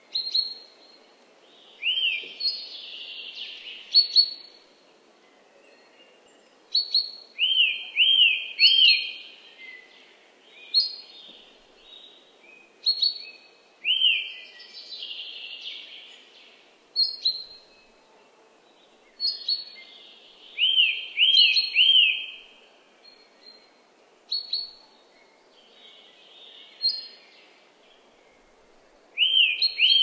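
Woodland birdsong: clear chirped notes repeated in quick runs of two to four, short high whistles and bits of warbling, in phrases separated by brief pauses. Underneath is a faint, steady background hiss.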